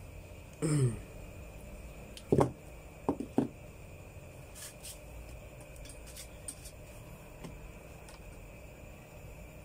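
A few sharp clicks and knocks from handling a small motor-run capacitor and meter test probes, about two and a half to three and a half seconds in, after a short low falling sound just under a second in, over a faint steady background hum.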